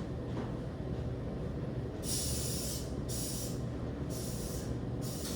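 Short bursts of spray hissing from a nozzle, about once a second, starting about two seconds in, over a steady low rumble.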